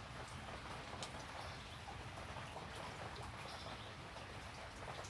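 Steady rain falling, with scattered sharper drops ticking through it.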